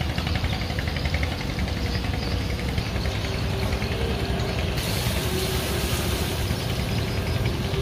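Speedboat engine running with a steady low rumble; a brighter hiss of water or wind noise joins about five seconds in.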